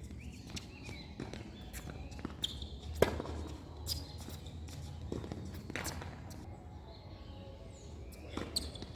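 Tennis balls being hit and bouncing on the court: several sharp knocks at uneven intervals, the loudest about three seconds in, over a low steady background hum.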